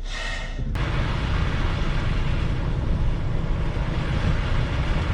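Wind buffeting the microphone in a snowstorm: a steady, fluttering low rumble that sets in after a sharp click under a second in.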